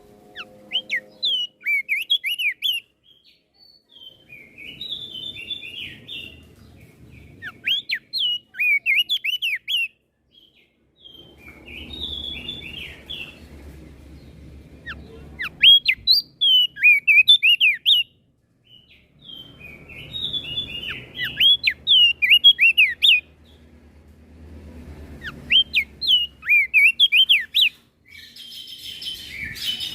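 Crested darkeye (opior jambul) singing repeated short phrases of quick rising-and-falling whistled notes, a fresh phrase every two to three seconds. A harsher chattering burst comes near the end.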